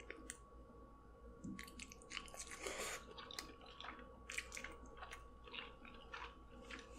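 A person biting into and chewing soft seafood coated in Alfredo sauce. The chewing is faint, with irregular wet smacks and clicks of the mouth.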